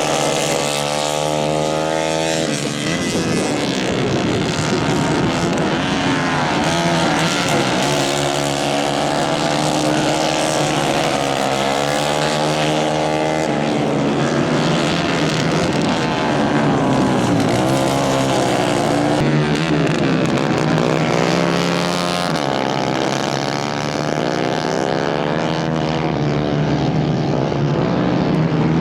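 Several 150 cc racing kart engines running hard on track, their pitch rising and falling as they rev up and back off.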